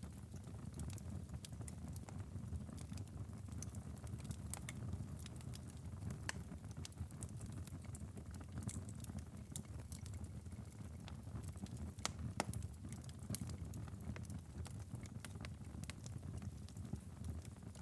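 Wood fire crackling in a fireplace: irregular sharp pops and snaps over a steady low rumble of the flames, with one louder pop about twelve seconds in.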